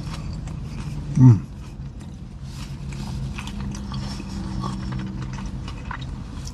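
A man chewing a mouthful of burger, with small clicking mouth sounds, and a short, loud falling 'mmm' about a second in. A steady low hum runs underneath.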